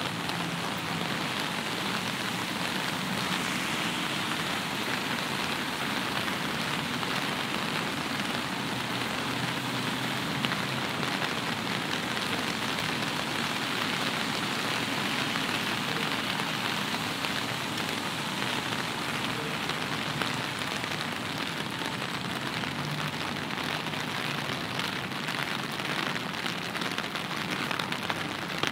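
Steady rain: a dense, even patter of raindrops falling on surfaces.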